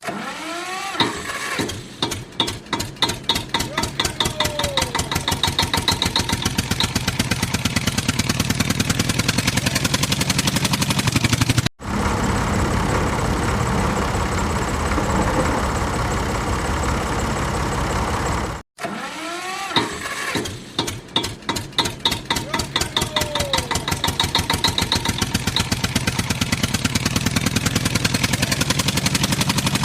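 Tractor engine cranking into life with a chugging beat that quickens as it catches, then running steadily. After an abrupt cut about 12 seconds in comes a steadier, noisier engine stretch, and a second cut near 19 seconds brings the same start-up sequence again.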